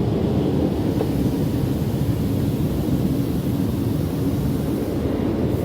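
Car wash machinery and water spray running: a steady low rumble with a faint hiss on top.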